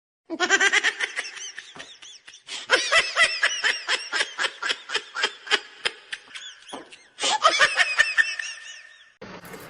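High-pitched laughter in quick repeated bursts, about three to four a second, with a short break about seven seconds in.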